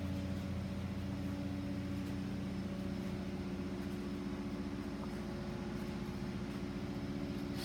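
Steady machine hum at a constant low pitch.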